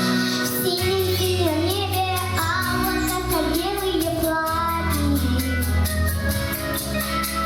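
A pop-style backing track with a steady beat and bass, and a girl singing the melody over it.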